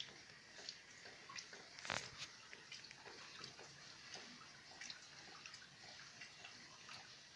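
Rain at night, heard as faint, irregular drops tapping and dripping over a soft hiss, with one louder drop about two seconds in.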